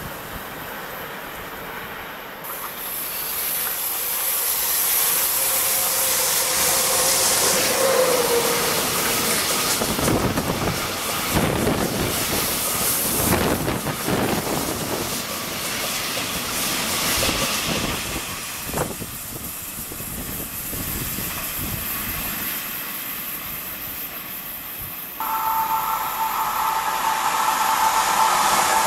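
Freight train of bulk-powder tank wagons passing close by: a steady rush and rumble of steel wheels on rail that builds over the first few seconds, with a single sharp click about two-thirds of the way through. Near the end the sound changes abruptly to a steady high whine over the track noise as an approaching BB 37000 electric locomotive comes into view.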